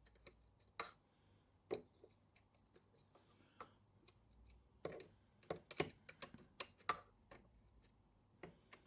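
Scattered light clicks and taps, irregular and quiet, from hands handling a small model beam steam engine, with a busier cluster of clicks around the middle.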